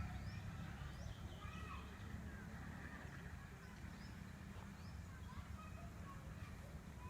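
Faint outdoor ambience: scattered small bird chirps over a steady low rumble.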